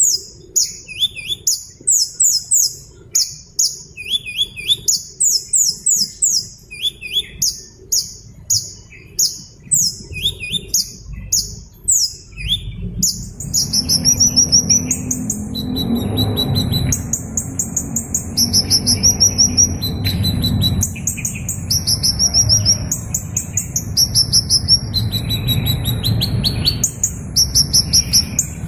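A small bird's rapid, high-pitched chirps and short trills, repeated over and over. About halfway through, a steady low rushing noise comes in beneath the calls.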